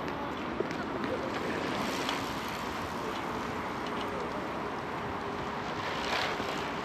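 Steady outdoor noise, with wind on the microphone.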